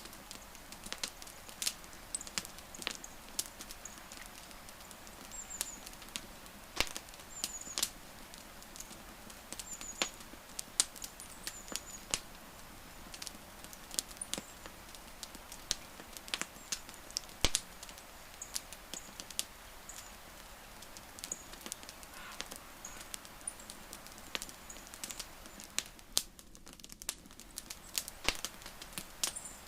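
Wood fire crackling: irregular sharp pops and snaps over a steady soft hiss. Short high chirps come now and then in the background.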